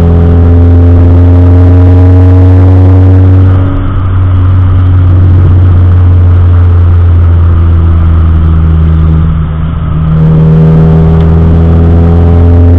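Car engine and road drone heard from inside the moving car: a loud low hum with an engine note that climbs slowly, easing off briefly twice.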